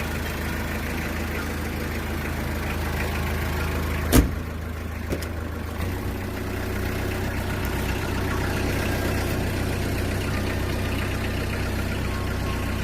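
A 2001 Hyundai Porter's diesel engine idling steadily. A single sharp knock sounds about four seconds in, and a fainter click follows a second later. Soon after, the engine's note shifts slightly and then settles again.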